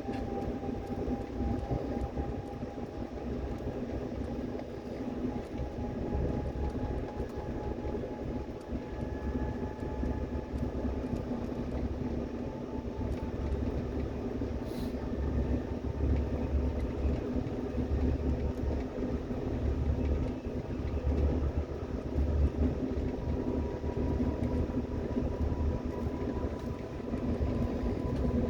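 Electric train running, with a steady rumble of wheels on track and a thin motor whine rising slowly in pitch as it gathers speed.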